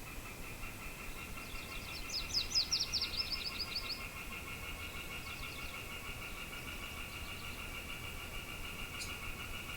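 A bird sings a quick run of high whistled notes, each slurring downward, from about one and a half to four seconds in. Under it a steady, rapidly pulsing trill on two pitches runs throughout, over a faint outdoor wind hiss.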